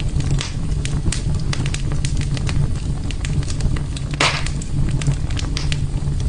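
Wood fire crackling, with irregular sharp pops over a steady low rumble, and one louder hissing crackle about four seconds in.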